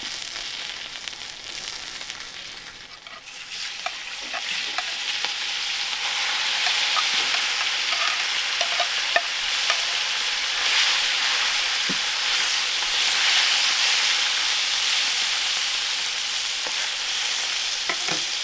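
Strips of chicken breast sizzling in oil on a wide metal disc comal over a wood fire, stirred with a metal spatula that scrapes and taps on the pan. The sizzle swells about four seconds in and stays steady, with scattered small clicks.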